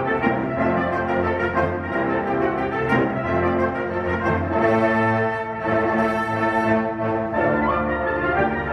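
An ensemble with brass to the fore playing music in held chords that shift every second or so.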